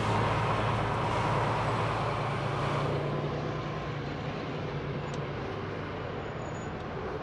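Semi truck's diesel engine and road noise heard from inside the cab while driving: a steady low hum with road rumble that eases a little after about three seconds.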